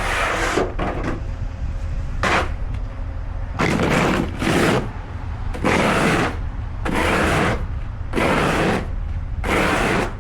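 A run of rhythmic scraping strokes, about one a second, each lasting well under a second, over the steady low rumble of an engine running.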